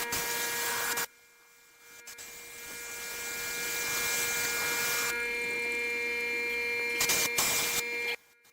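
An electric power tool running with a steady whine over a rushing noise. It cuts off abruptly about a second in, builds up again from about two seconds in, then runs steadily until it stops abruptly near the end.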